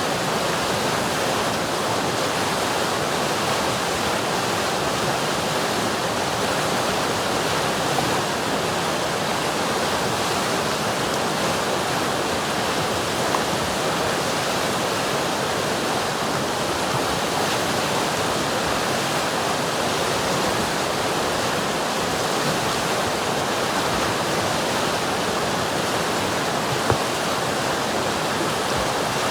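River water rushing steadily over rocks, a constant even roar with a few faint ticks or splashes.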